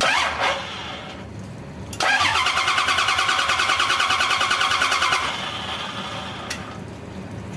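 Starter motor cranking a half-century-old Toyota forklift engine on its first start after a rebuild: a fast, evenly pulsing churn for about three seconds that stops without the engine catching. A short noisy burst comes right at the start.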